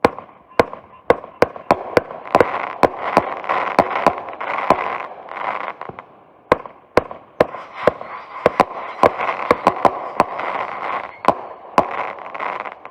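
Consumer aerial fireworks going off in a rapid volley: a string of sharp bangs, about two a second, with hissing and crackling between them.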